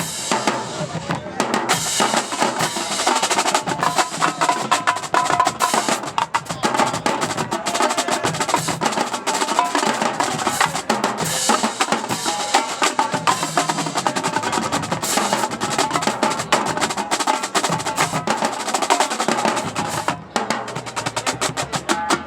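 A marching band plays loudly, with the drumline's snares and bass drums driving a fast run of strokes and rolls and pitched band parts running alongside.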